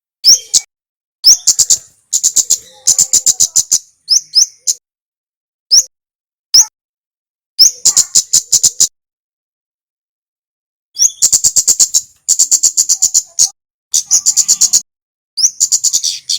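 Male kemade songbird singing in repeated phrases. Each phrase is a sharp rising chip note, then a rapid train of high, clipped notes at about eight a second, with short silent gaps between phrases.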